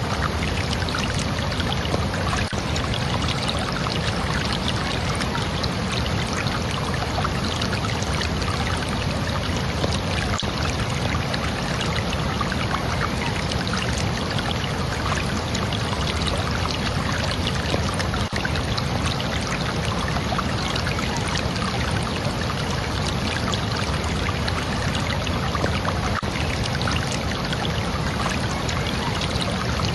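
Steady rush of flowing water, unbroken and even throughout.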